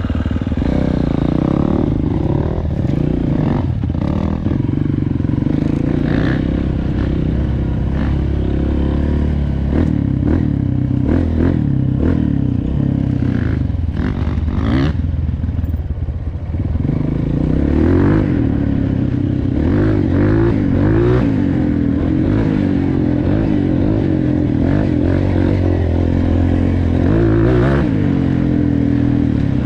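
Four-stroke dirt bike engine running under load while being ridden, its pitch rising and falling with the throttle, with clatter and knocks from the bike over rough ground, most of them between about a third and halfway through.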